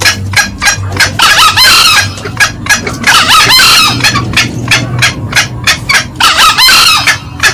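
Green junglefowl calls from a loud lure recording. A steady run of short, sharp clucking notes, about three a second, is broken three times by a longer crow: about a second in, about three seconds in, and near the end.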